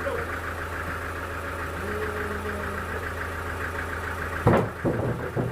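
An engine running steadily at idle with an even rapid pulse, and a few loud knocks about four and a half seconds in.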